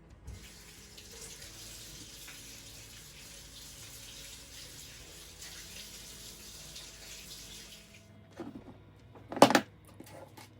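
Water running from a tap over the disassembled chainsaw parts as they are washed, a steady hiss that stops about eight seconds in. A few sharp knocks follow, one loud knock about a second later.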